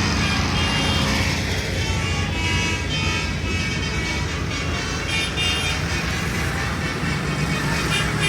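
Tractor engines running steadily as tractors go past, a continuous low hum.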